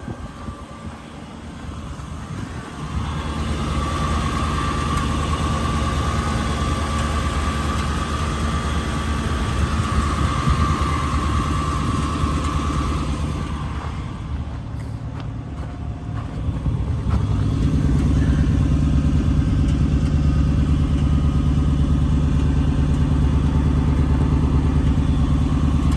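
A motor vehicle engine running steadily. It grows louder about three seconds in, with a steady whine for roughly ten seconds, then grows fuller and louder again about seventeen seconds in.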